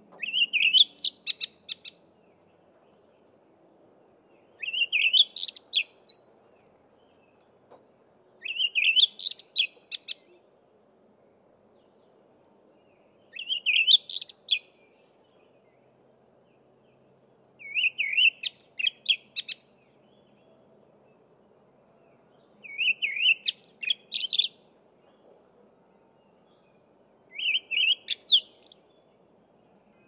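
A songbird singing the same short phrase of quick chirping notes over and over, seven times, with a pause of a few seconds between phrases.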